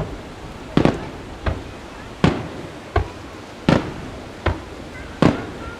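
Fireworks shells bursting in quick succession, about one sharp boom every three quarters of a second, each with a short echo.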